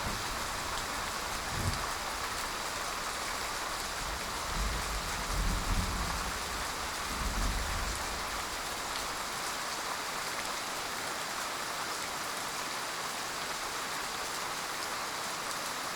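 Steady heavy rain falling. A few low rumbles sound in the first half, near two, five and seven seconds in.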